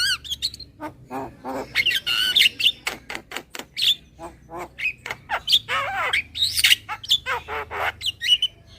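Javan myna (jalak kebo) calling as a lure call: a rapid run of harsh squawks and sharp clicking notes, some of them sliding in pitch.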